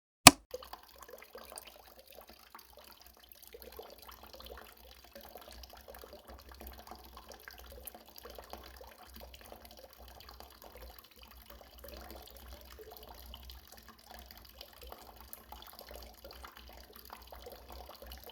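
Water trickling and splashing from a small DIY water pump into a bowl, uneven and fluttering, over a faint low hum. A single sharp click sounds just after the start.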